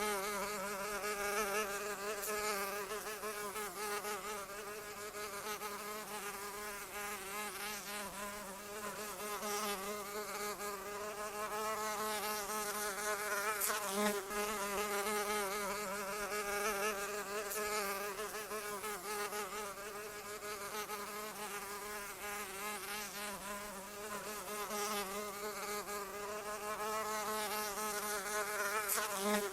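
A flying insect's wings buzzing in a continuous drone whose pitch wavers up and down without a break.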